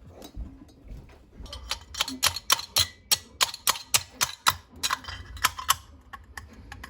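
A run of sharp, hard taps, about four a second for several seconds, from knocking a stuck porcelain stoneware plug out of a 72 mm diamond core bit.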